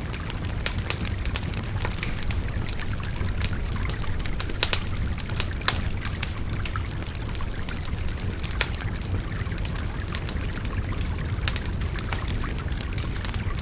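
Wood fire crackling and popping with irregular sharp snaps, over the steady rush of a babbling river.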